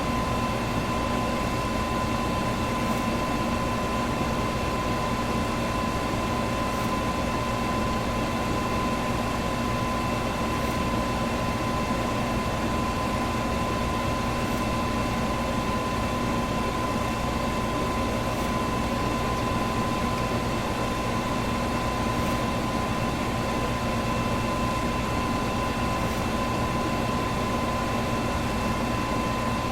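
Electric fan running steadily: an even rush of air with a constant whine held in it.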